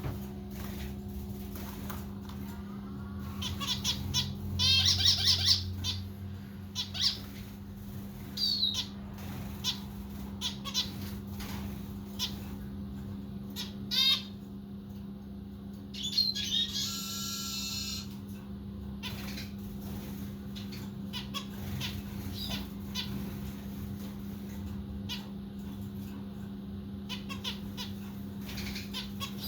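Zebra finches calling, with short chirps scattered throughout and busier bursts around five and seventeen seconds in. A steady low hum runs underneath.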